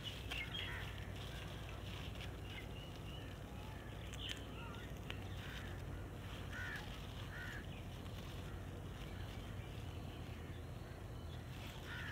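Birds calling faintly in the distance, with two short calls about six and seven seconds in, over a steady low rumble.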